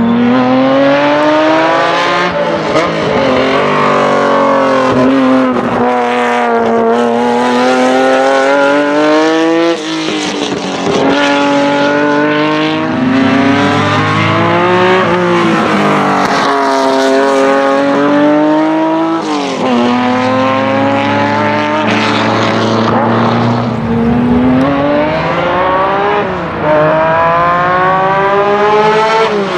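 Honda NSX racecar's stroked 3.5-litre naturally aspirated VTEC V6 with straight-pipe exhaust, driven at full throttle. The pitch climbs through each gear and drops at every shift. The engine briefly lifts off twice, about ten seconds in and again near the end.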